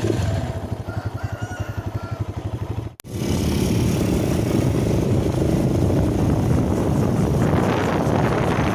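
A motorcycle engine running, with a fast, even pulsing. About three seconds in there is a sudden break, and then the engine comes back louder with more noise over it.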